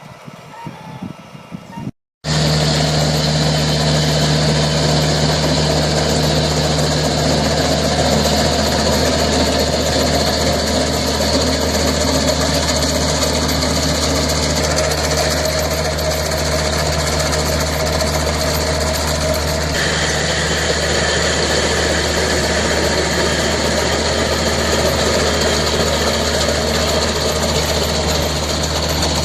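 A large engine running steadily at an even speed, starting abruptly after a brief cut about two seconds in, with a slight change in its sound near the twenty-second mark.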